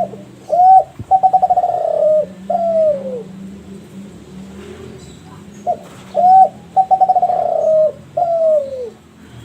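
Spotted dove of the Kelantan derkuku (tekukur) line singing two coo phrases about five seconds apart. Each phrase is a short coo, then a rolling, stuttered coo, then a last coo that slides down in pitch.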